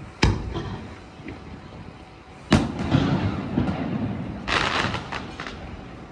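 Aerial fireworks going off: a sharp bang just after the start, a louder bang about two and a half seconds in that rumbles and echoes for a second or more, then a burst of crackling about four and a half seconds in.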